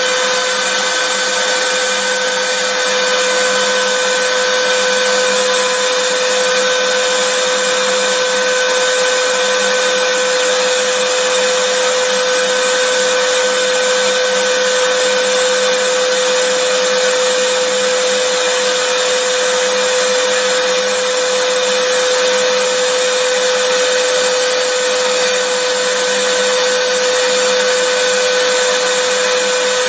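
Vacuum cleaner motor running steadily, an unchanging loud whoosh with a constant whine on top.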